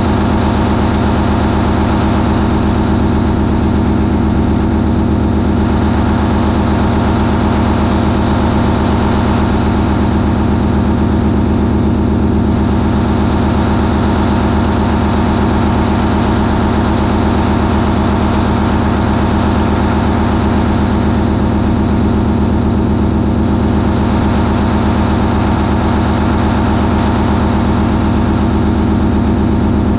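MAN 20V28/33D STC twenty-cylinder V diesel, a ferry's main propulsion engine, running loud and steady at a constant 980 RPM.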